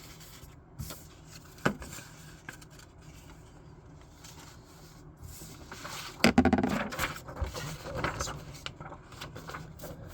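Paper being handled: a few light clicks and scrapes at first, then louder crinkling and rustling from about six seconds in.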